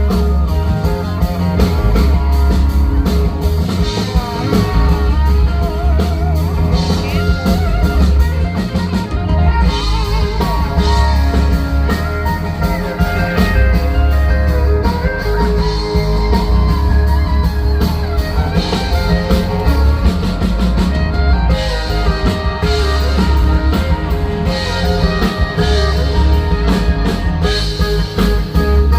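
Live band playing an instrumental break with no singing: guitar over bass and a steady drum-kit beat.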